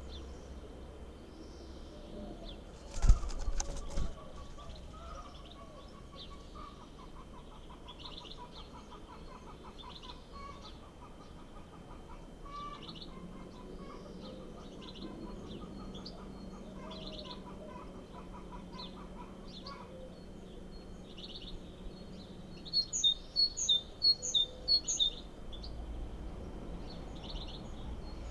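Birds chirping with short, high calls throughout, and a brief loud thump and rustle about three seconds in. Near the end comes a quick run of about ten loud, high chirps.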